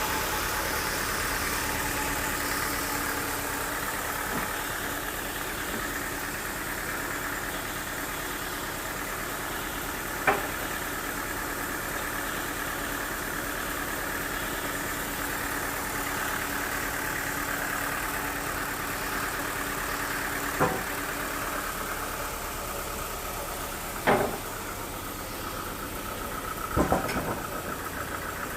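An engine or machine running steadily, with a few sharp knocks now and then.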